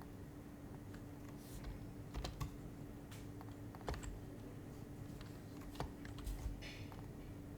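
Keystrokes on a Happy Hacking Keyboard Professional HYBRID Type-S with silenced Topre switches: scattered, irregular taps, a few of them louder, over a faint steady hum.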